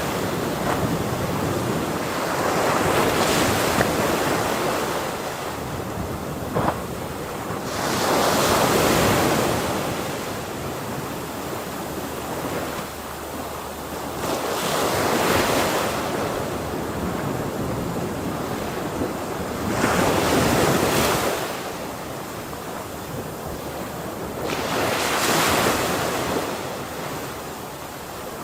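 Ocean waves breaking and washing ashore: five surges of surf, each building and falling away, about every five to six seconds.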